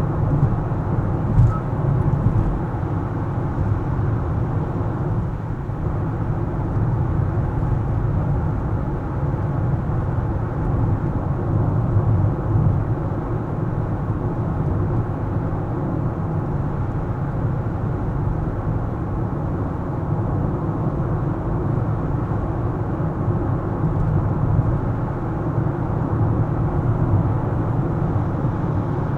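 A car driving, with a steady low rumble of road and engine noise. A faint click comes about a second and a half in.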